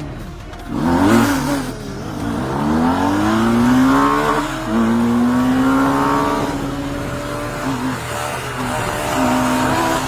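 Vehicle engine running hard at speed, with steady wind and road rush. Its pitch climbs for a couple of seconds, drops as it shifts up, holds steady, then climbs again near the end.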